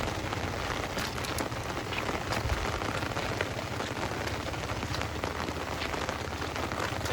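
Heavy rain falling hard and steadily, a dense even patter of countless drops.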